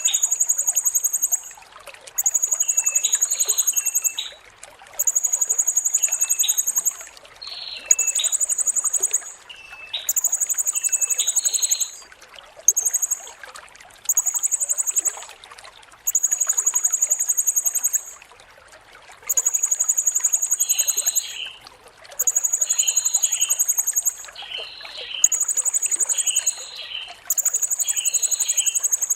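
Blue-crowned hanging parrot (serindit) calling: a string of shrill, very high trills about a second or two long, repeated every two seconds or so, with shorter, lower chirps between them. A steady trickle of running water underneath.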